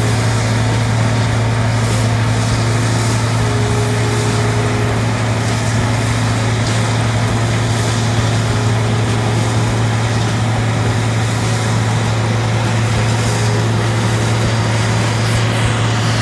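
Combine harvester running steadily: a constant low engine drone with a dense mechanical rush from the machine over it.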